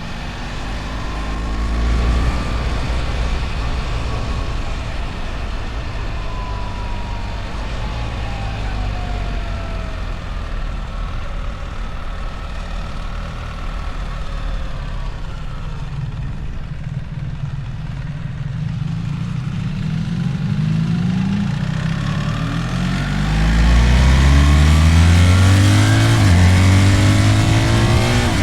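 BMW R1300 GS boxer-twin engine under way: running fairly steadily at first, then accelerating hard through several gear changes in the last third, its pitch rising in steps as the wind noise grows.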